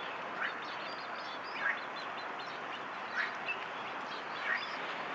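A bird giving short rising calls, four times about a second and a half apart, with fainter high chirps over a steady hiss.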